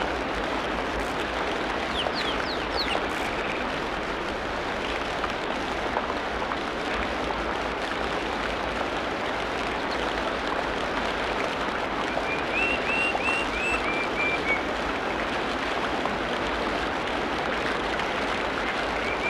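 Tropical rainforest ambience: a steady, even hiss with birds calling over it, a few high chirps a couple of seconds in and a quick run of about eight short rising notes about two-thirds of the way through, another run starting near the end.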